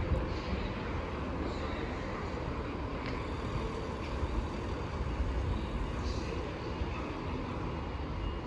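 Steady low diesel rumble of Class 143 Pacer railbus units running at the platform, with a few faint, short high squeaks.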